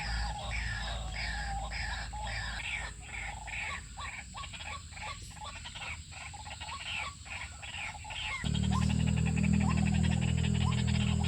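White-breasted waterhen (ruak-ruak) calling, a repeated croaking call about twice a second that gives way to a rapid clicking series. About eight seconds in, a steady low hum comes in.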